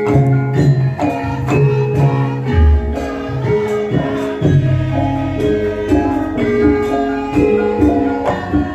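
Live Javanese band music with a steady beat: held melody notes over a strong bass line and regular percussion strikes, with little or no singing.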